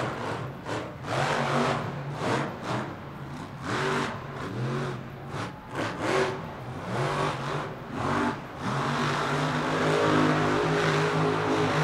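Monster truck's supercharged V8 engine revved hard in quick throttle blips, then held at steady high revs from about two thirds of the way in.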